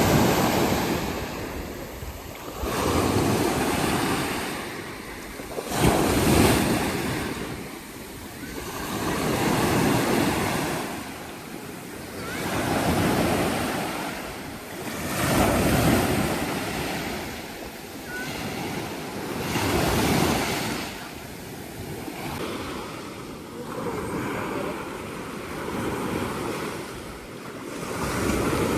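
Sea waves washing in and drawing back, the surge swelling and fading about every three to four seconds.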